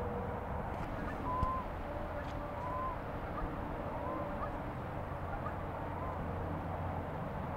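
Birds calling, short hooked calls roughly every second and a half, over a steady low rumble.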